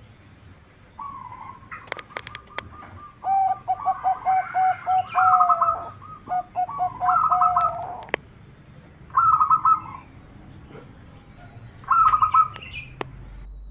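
Zebra dove (perkutut) cooing: a run of short, evenly spaced coo notes, followed by several quick, rolling trilled coo phrases. A few sharp clicks are mixed in.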